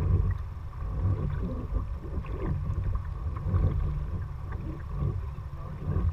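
Kayak being paddled: the water splashes and drips off the paddle blades in a steady rhythm, swelling about once a second over a low rumble.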